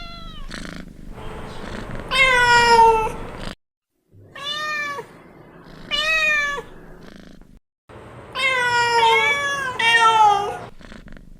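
Domestic cat meowing: about five separate meows, some long and drawn out, rising and then falling in pitch.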